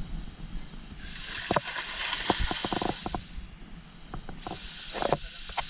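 Water splashing and sloshing in a swimming pool in two spells, with a few sharp knocks mixed in.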